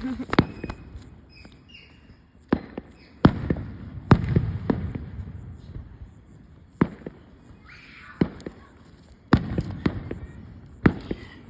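Fireworks exploding: about ten sharp bangs at uneven intervals, several trailing off in a low rumble.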